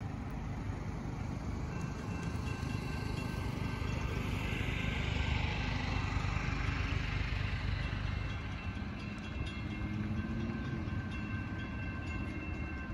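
Low, steady rumble of an approaching CSX freight train's diesel locomotives, still some way off, with a swell of hiss about five seconds in.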